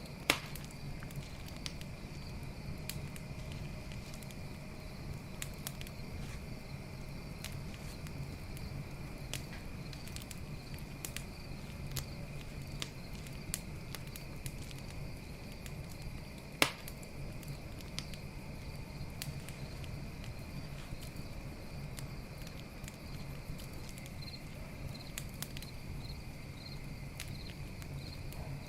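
Campfire crackling with frequent small snaps and two loud pops, one just after the start and one about halfway through, over a steady high chirring of crickets.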